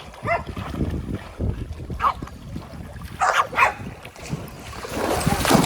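Dog whining and yelping in several short, high calls, with water splashing in the swimming pool near the end.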